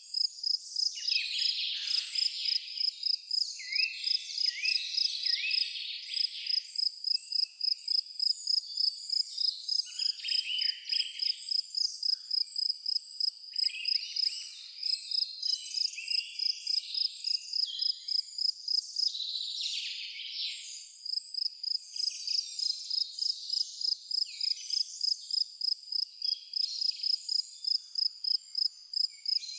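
An insect chirps in a steady, even pulse of about three high chirps a second, like a cricket, while birds sing short phrases now and then.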